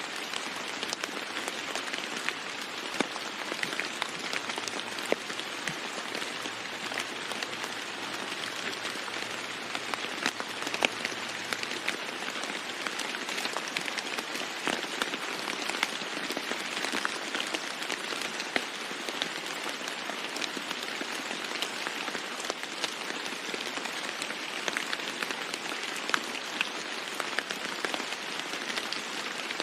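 Steady rain falling on a roof, an even hiss with many short, sharp drop ticks throughout.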